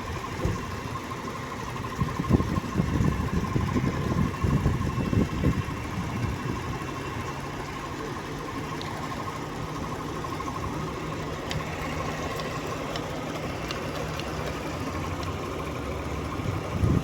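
A 2022 Jeep Grand Cherokee idling with its air conditioning running, a steady whine over the engine, while its low-pressure AC system is being charged from a can of refrigerant. Low rumbling thumps come in the first few seconds, and a deeper steady hum sets in about seven seconds in.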